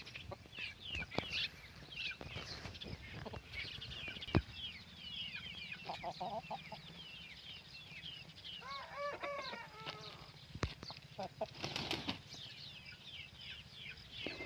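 Chickens calling at low level: a steady run of short, high, falling chirps, with lower clucking calls about six seconds in and again around nine to ten seconds, and a few sharp knocks.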